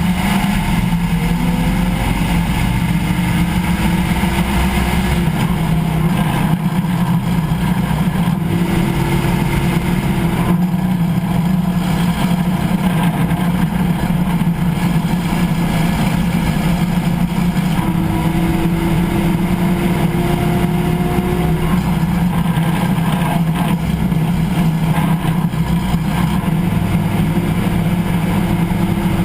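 Car driveline and road noise heard from under the vehicle beside the differential pinion, a steady low drone. A faint whine comes and goes several times, some of it rising slowly in pitch: the driveline noise on deceleration that is being chased.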